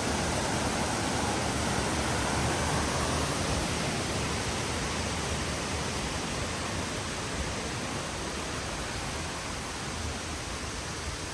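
Waterfall's rushing water as a steady, even roar of noise, fading slightly toward the end.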